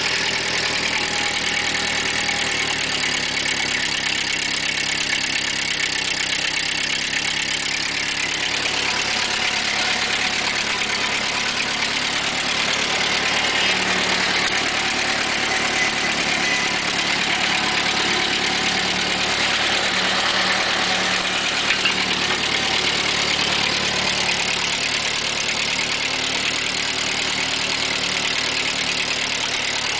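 1948 Ford 8N tractor's four-cylinder flathead gasoline engine running steadily at idle just after a cold start. The note shifts slightly about eight seconds in.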